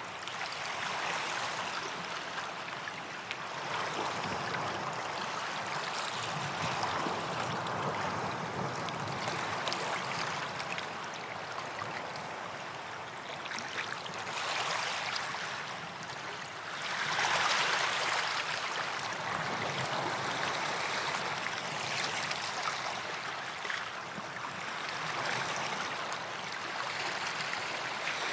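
Small waves washing onto a sandy beach as a continuous hiss that swells and ebbs, surging loudest a little past the middle.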